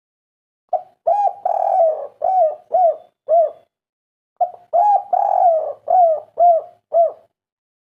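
Spotted dove (derkuku, tekukur) cooing in its 'kuk 3' song: two phrases of about six low coos each, the second starting about four and a half seconds in.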